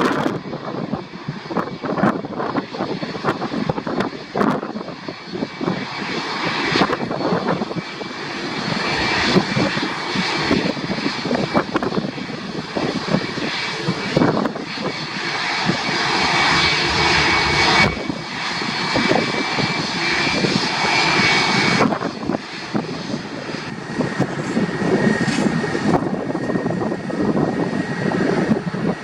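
Jet airliner engines running loud, building over several seconds with a steady high whine, then dropping off sharply about three-quarters of the way through while a slightly lower whine carries on.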